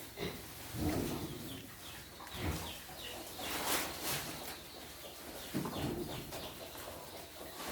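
Small birds chirping in short falling calls, with a few dull thuds and a brief rustle.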